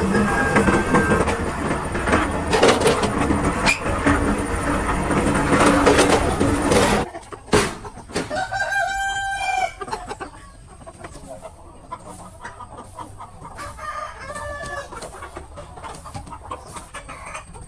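A loud, dense noise cuts off suddenly about seven seconds in. Then a rooster crows once in a long call, and a shorter, fainter crow follows about five seconds later.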